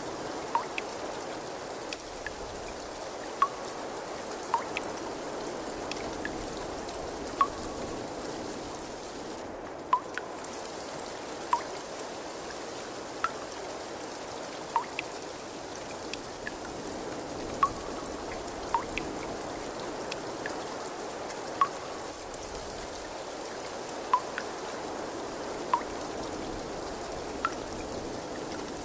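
Steady trickle of running water, with single clear drops plinking into water every second or two.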